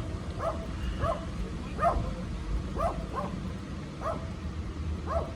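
A dog barking over and over, short yapping barks about two a second, over a steady low rumble.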